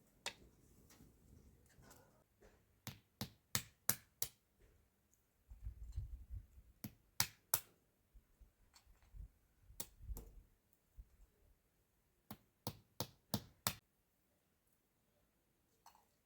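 Sharp taps or clicks in quick runs of a few a second, with short gaps between the runs, and a low rumble about six and ten seconds in.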